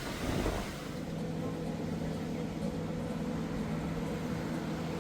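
Wind noise at first, then from about a second in a steady engine hum with a low drone.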